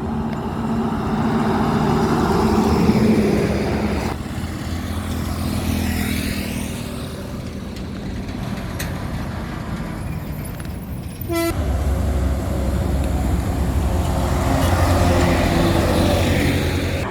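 Highway traffic with trucks and other vehicles passing, engines running and tyre noise swelling and fading. A short horn toot sounds about eleven seconds in.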